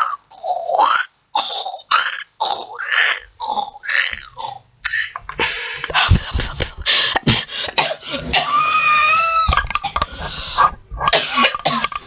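A person making a run of strange vocal and mouth noises: short choppy bursts with breaks between them, squeaky sliding sounds, and a high steady tone held for about a second about eight and a half seconds in.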